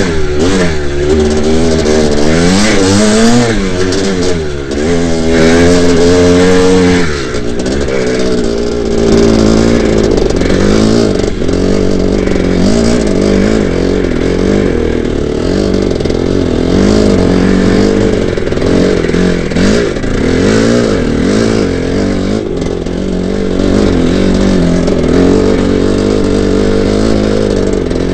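1982 Maico 490 two-stroke single-cylinder dirt bike engine being ridden, its revs rising and falling with the throttle. A hard pull a few seconds in cuts back sharply, then the engine runs on with smaller surges and backings-off.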